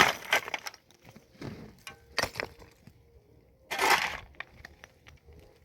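Irregular crunching and cracking knocks: a few sharp strikes, and a longer crunching burst about four seconds in.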